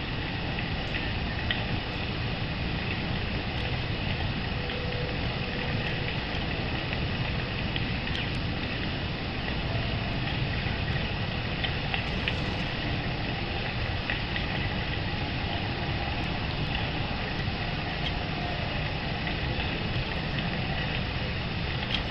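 Steady outdoor background noise, with faint short high ticks or chirps scattered through it.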